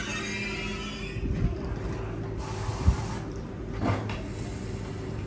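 High-speed TGV train standing at the platform: a steady hum from its running onboard equipment under a hiss, with one low thump about three seconds in.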